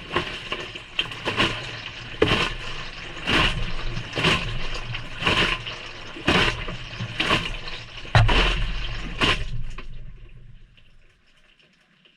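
Water and laundry sloshing inside a Maytag front-loading washer's drum as it turns on a delicate cycle, with a splash about once a second. The sloshing fades out near the end as the drum stops.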